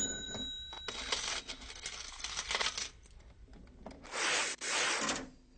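Money sound effects opening a rap track: a brief bell-like ring, then coins clattering and jingling, then two louder rushing noises about four and five seconds in.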